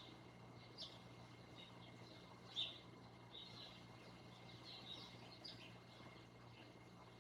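Small birds chirping faintly: many short, high notes scattered irregularly, with one louder chirp about two and a half seconds in, over a faint steady low hum.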